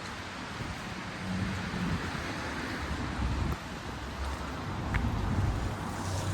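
City street ambience: a steady wash of noise with a low hum underneath.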